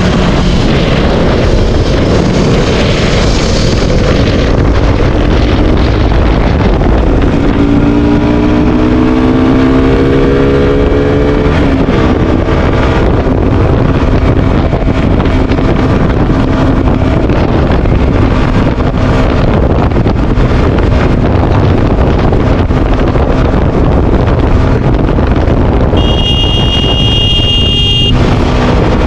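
Wind rushing over the microphone on a moving KTM RC 200 motorcycle, its single-cylinder engine rising in pitch as it accelerates and then running steadily. A horn sounds for about two seconds near the end.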